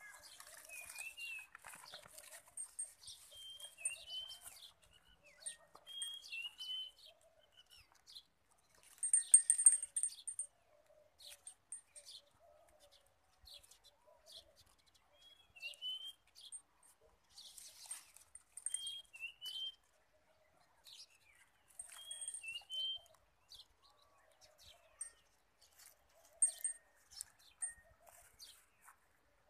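Small birds chirping: short curved two-note chirps every second or two, with thin high peeps and brief bursts of crackling rustle, the loudest about nine seconds in.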